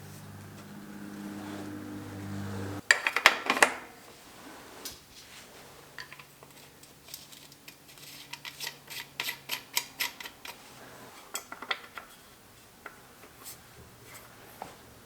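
Light metal clicks and clinks of tools and bike parts being handled, with a steady low hum that stops abruptly about three seconds in, then a quick cluster of louder clinks and a run of sharp clicks.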